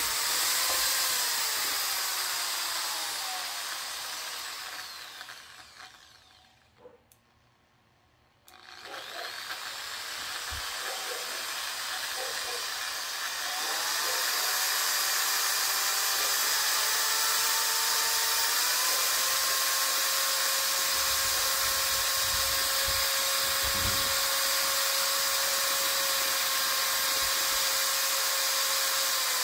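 Total 680 W electric impact drill's motor running at varied speed. Its whine slows and falls to a stop about six seconds in, starts again, then rises in steps to a steady high speed held for the last ten seconds.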